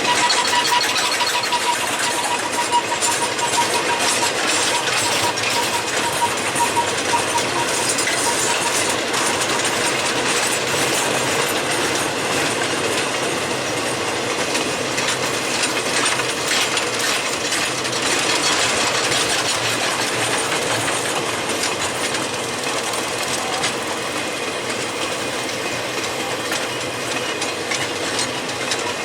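Freight train cars rolling past at low speed, their wheels clicking steadily over the rail joints. A thin high tone runs under it for the first several seconds.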